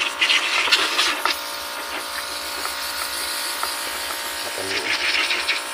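Small electric pressure washer running, its motor buzzing steadily under the hiss of the water jet spraying the rear AC unit to flush out caked dust. The spray spatters harder at the start and again near the end.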